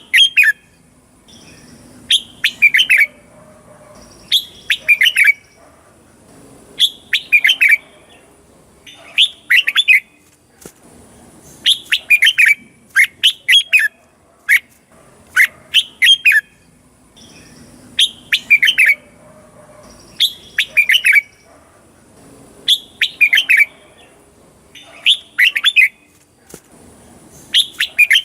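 Red-whiskered bulbul singing: loud, short phrases of quick whistled notes, repeated every second or two.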